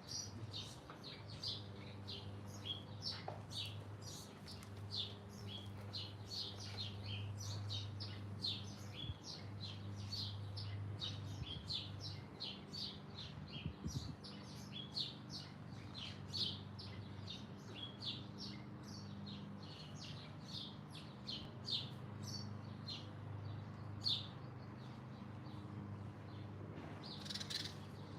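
Small birds chirping busily in a garden, many short rapid chirps overlapping without a break, over a steady low hum.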